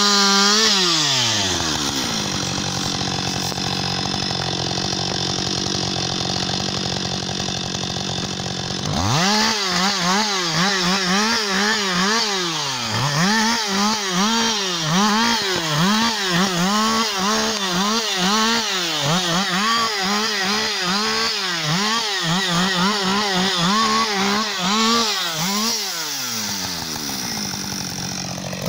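Husqvarna 560 XP two-stroke chainsaw winding down from full throttle to idle, idling steadily, then its engine speed rising and falling over and over for a long stretch before settling back to idle. It revs up again right at the end.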